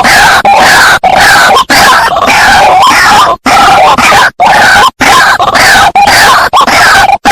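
White-breasted waterhen (ruak-ruak) calling in a loud, rapid series of repeated croaking notes, a few each second, broken by a few brief pauses. This is a bird-lure playback recording of the species' call.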